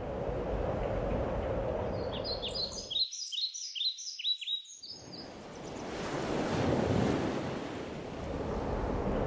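Surf washing in with some wind. About two seconds in, a songbird sings a run of quick falling chirps; the surf cuts out abruptly for about two seconds under the song, then comes back and swells.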